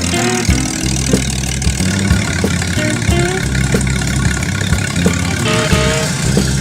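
Restored 1962 Ford Falcon 2.4-litre inline-six engine running steadily, with background music that has a steady beat and a melody laid over it.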